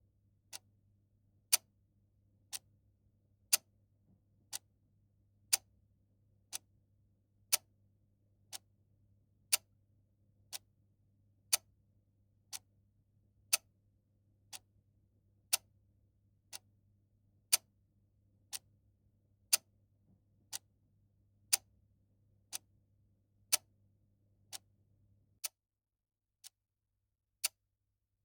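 Clock ticking once a second, the ticks alternating louder and softer in a tick-tock pattern. A faint low hum runs under the ticks and cuts off a few seconds before the end.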